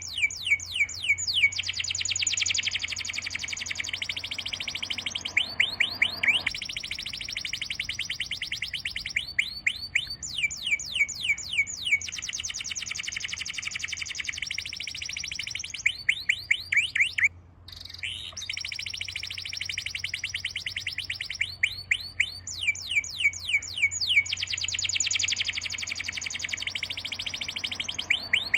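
Songbird singing in repeated phrases: each begins with a run of quick downward-sweeping whistles and runs into a fast, high trill, the phrase coming back every few seconds. The song breaks off briefly about two-thirds of the way through.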